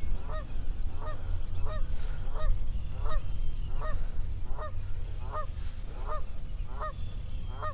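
A bird calling in a steady run of short, evenly spaced calls, about three every two seconds, over a low steady rumble.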